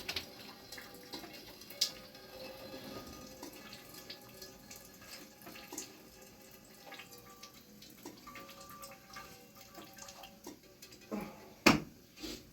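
Water dripping irregularly, scattered drops from a leaking roof, with one sharp knock near the end.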